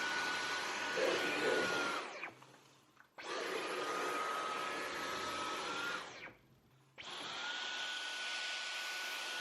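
Dyson V15 cordless stick vacuum running with a steady high whine. It is switched off twice, about two and six seconds in, winding down each time, then started again within a second, its pitch rising as the motor spins up.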